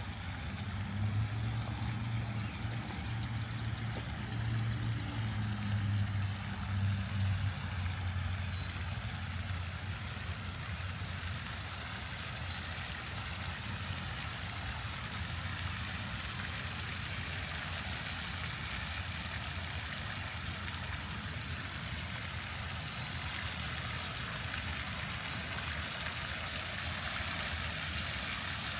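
A low engine hum from a passing vehicle rises and fades over roughly the first nine seconds, over a steady rushing background noise.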